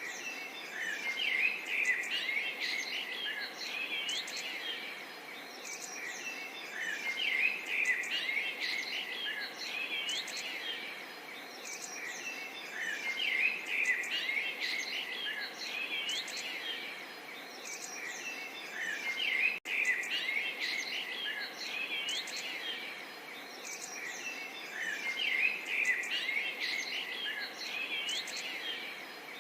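Many small birds chirping and twittering together in a dense, continuous chorus of quick high notes and short glides, broken by a momentary dropout about two-thirds through.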